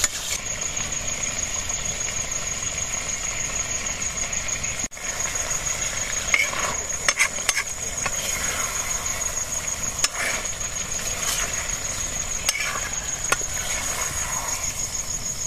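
Chicken pieces sizzling in a hot wok while a metal ladle stirs and scrapes them, with scattered sharp clicks of the ladle against the pan.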